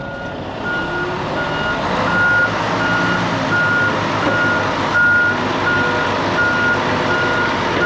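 Semi truck's backup alarm beeping at an even rate, a little under one and a half beeps a second, over the steady rumble of the diesel engine as the tractor-trailer reverses.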